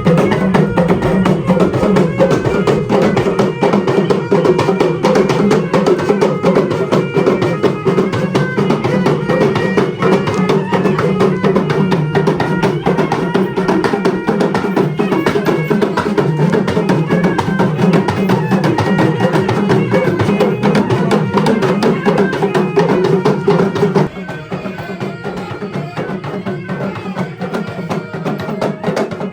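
Traditional tribal music led by drums and other percussion, a steady fast rhythm of strokes. It drops in loudness about 24 seconds in.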